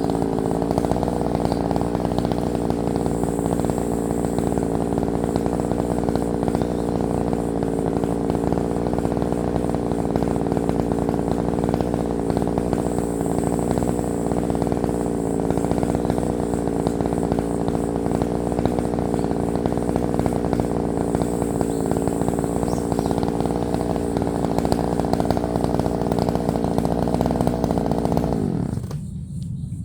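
Chainsaw engine running steadily, then winding down in pitch and stopping about a second before the end.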